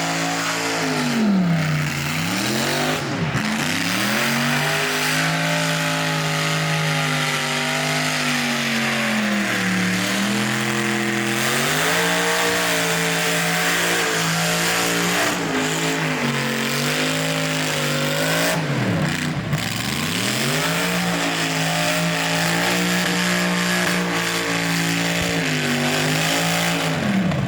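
Supercharged LS V8 in an R34 Skyline held at high revs through a burnout, over the hiss of spinning tyres. The revs drop sharply and climb back about four times, near the start, about ten seconds in, about nineteen seconds in and at the very end.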